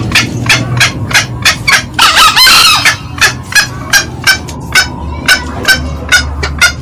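Green junglefowl calls: a steady run of short, sharp cackling notes, about three a second, with one longer, louder crow about two seconds in.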